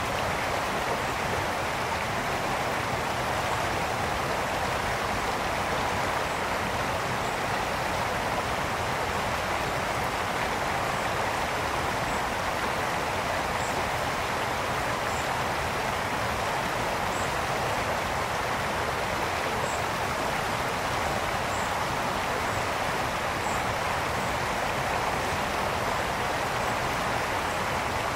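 Brook water flowing steadily, an even rushing and babbling.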